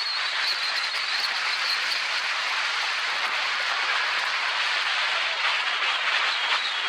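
Steady rushing noise of a mountain bike going downhill at speed: tyres running over a dirt trail, with many small rattles and ticks.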